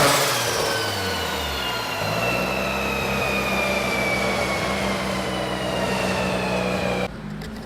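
Turbocharged car on a chassis dyno just after a full-throttle pull: the engine comes off high revs and settles to a steady idle while a long falling whine winds down over several seconds as the rollers coast to a stop. The sound drops off abruptly about seven seconds in.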